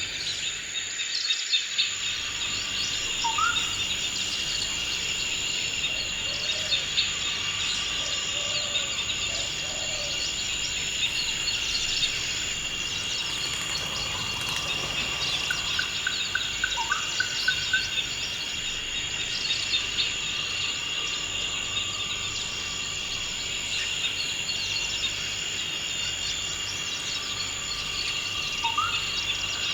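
Forest ambience: a steady, high insect chorus of crickets, with occasional short rising bird chirps and a brief rapid bird trill about halfway through.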